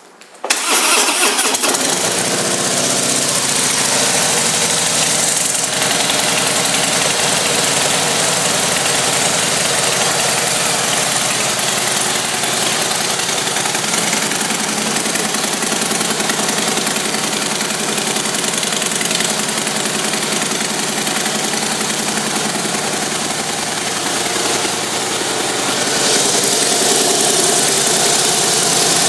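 2014 Harley-Davidson Fat Boy's 103 cubic inch V-twin starting up about half a second in, then idling steadily. It gets a little louder near the end.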